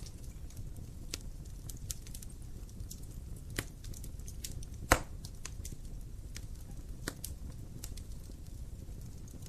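Wood fire burning in a fireplace, with a steady low rumble under frequent sharp crackles of the burning logs and one loud pop about five seconds in.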